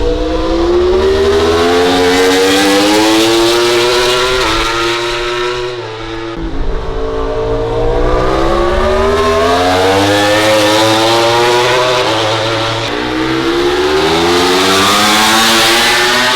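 MotoGP race motorcycle engines at full throttle, the pitch climbing steadily and dropping sharply at gear changes: three long climbs, with breaks about four and six seconds in and again near the end.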